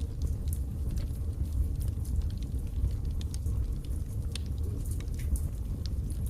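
Wood fire crackling in a fireplace: irregular sharp pops and snaps scattered over a steady low rumble of the burning.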